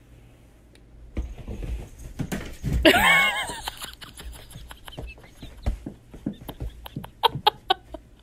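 A cat leaping about on a bed: soft thumps and rustling of the sheet, with one brief wavering cry about three seconds in and a run of light sharp taps near the end.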